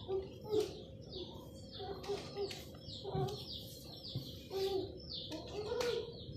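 Birds chirping: a steady run of short, high, falling chirps, several a second, with short lower calls among them and a single knock near the end.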